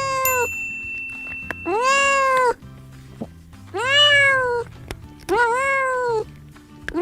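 Domestic cat meowing over and over, a call of under a second roughly every two seconds, each rising and then falling in pitch.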